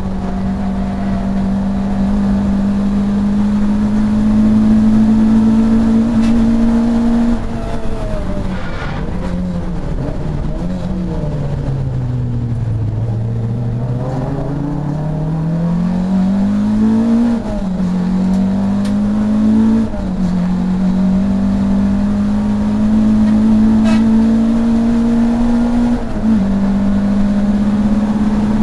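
Saloon race car's engine heard from inside the car at full throttle, its pitch climbing slowly; about seven seconds in the revs fall away as the car slows for a corner, then it accelerates hard out of it, with gear changes about seventeen, twenty and twenty-six seconds in.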